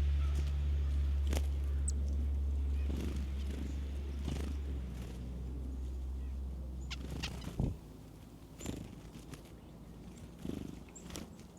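A low, steady hum like a motor, which cuts off with a thump about three-quarters of the way through, followed by scattered light clicks and taps.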